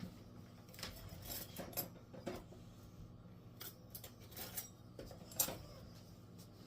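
Light metal clinks and scrapes of a knife and a kitchen utensil against a plate, knocking ground beef off the utensil; a dozen or so short taps scattered through, the sharpest about five and a half seconds in.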